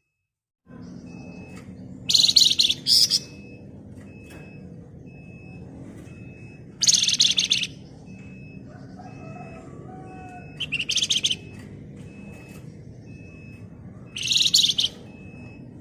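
A Flamboyan songbird gives four bursts of rapid, dense, harsh trilling, each about a second long, in the packed 'ngebren' style of a bird in full song. Under the bursts run a steady low hum and a faint high peep that repeats about every ¾ second.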